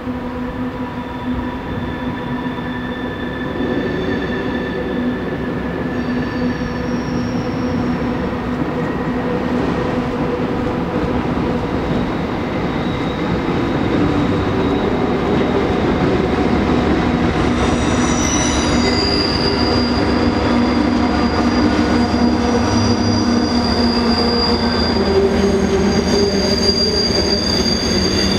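Canadian Pacific freight train with diesel locomotives and tank cars crossing a steel trestle bridge. A dense, steady rumble grows louder over the first half, then holds. Several thin, high, steady squealing tones from the wheels on the rails come and go throughout.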